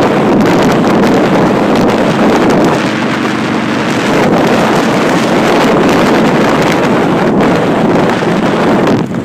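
Motorcycle engine running while riding, under heavy wind noise on the microphone; the roar eases slightly just before the end.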